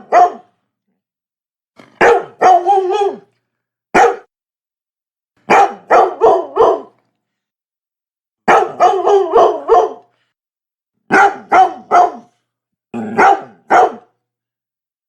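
Labrador dog barking in repeated volleys of one to five quick barks, with short silent pauses between the volleys.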